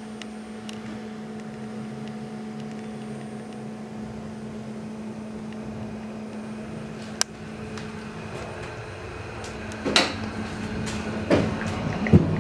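Steady hum inside a moving passenger railway carriage, with a single sharp click about seven seconds in. From about ten seconds on the rolling noise grows, and wheels knock and clatter over rail joints and points roughly once a second as the train gathers speed.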